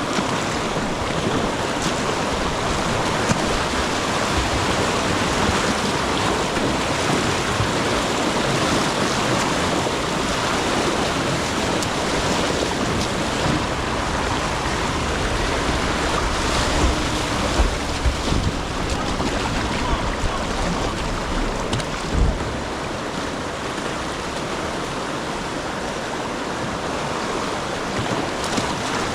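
Whitewater rapids rushing steadily around a kayak, with a few brief low thumps partway through.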